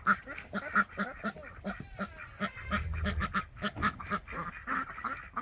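A flock of ducks quacking, with many short calls overlapping one after another.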